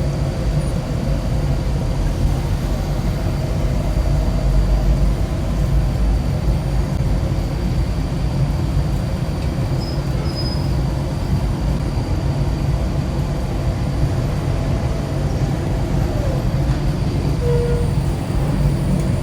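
Motorcycle on the move: a steady low rumble of engine and road noise, with no letup.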